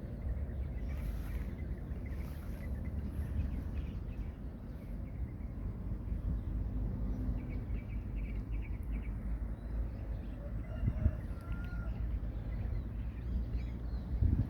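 Steady low rumble of outdoor background noise, with faint bird chirps in the second half.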